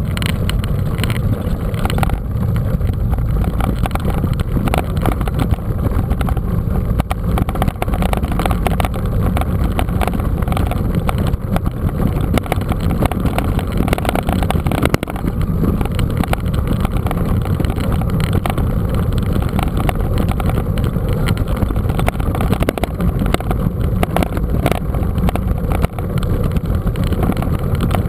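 Steady loud rumble of wind buffeting and rolling noise on a camera riding along on a moving mountain bike, with frequent small knocks and rattles throughout.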